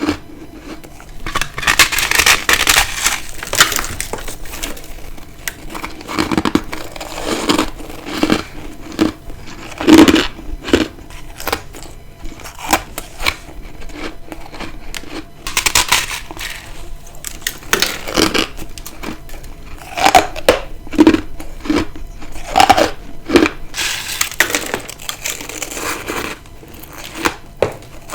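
Close-miked bites into ice: repeated crunching and crackling, with a longer crunch every several seconds and sharp cracks and snaps between.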